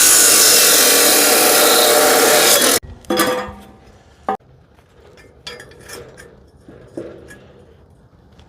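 A corded power tool runs loudly for about three seconds and stops abruptly. A few light clinks and knocks follow.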